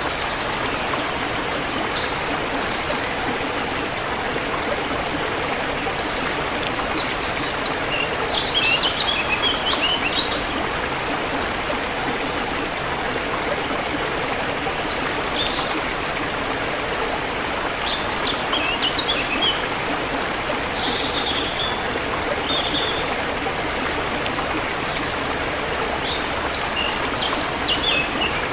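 A forest river or stream flowing with a steady rush of water, while small songbirds chirp in short bursts of high notes every few seconds.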